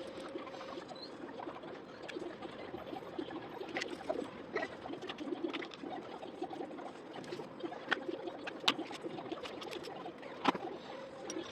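Scattered sharp metallic clicks and clinks of tools and engine parts being handled during a diesel engine rebuild, over a steady background hum. The loudest clink comes near the end.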